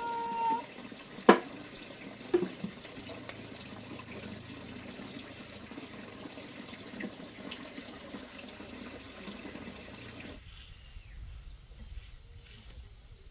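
Water running steadily, with two sharp knocks in the first few seconds, the first the loudest sound here. Near the end it gives way to a quieter background with faint insect chirping.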